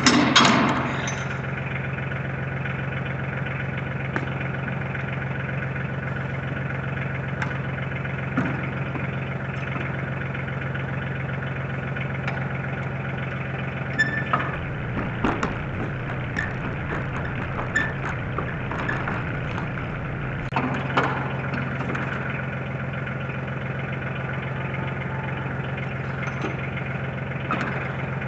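Tractor engine running steadily at idle, with scattered knocks and clunks, busiest about halfway through, where a low rumble joins in for several seconds.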